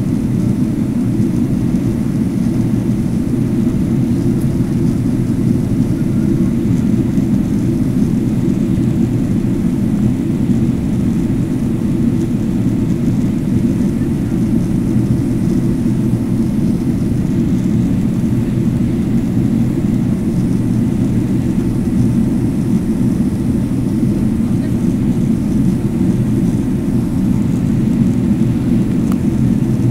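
Steady cabin noise of a Boeing 767-300ER on its landing approach, a constant deep rumble of engines and airflow heard from inside the cabin.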